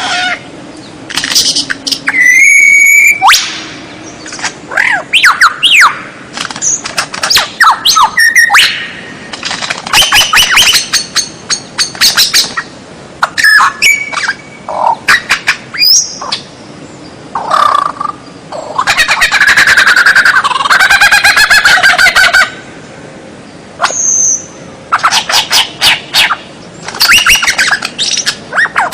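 White-rumped shama (murai batu) singing a loud, varied song in short phrases with brief pauses between them. The phrases mix clear whistles, fast repeated trills and harsh chattering notes, with one long dense phrase near the middle.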